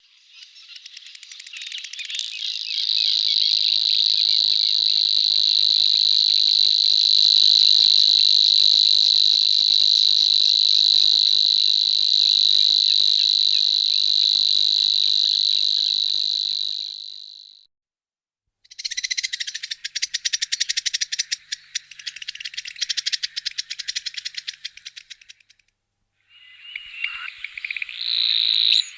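Savi's warbler singing its long, insect-like reeling song, a high, even buzz that builds up over the first couple of seconds and holds for about seventeen seconds before stopping. After a brief pause comes a rougher, rapid ticking rattle lasting several seconds. Another reel begins near the end.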